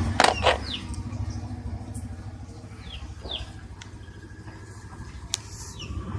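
Refrigerator compressor running with a low, uneven pulsing hum. A few clicks come near the start and about five seconds in. Several short, falling bird chirps sound high above it.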